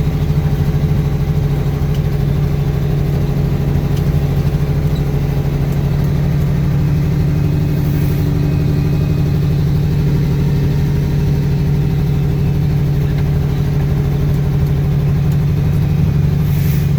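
Heavy truck's diesel engine running steadily at low revs, heard from inside the cab, with a constant low hum.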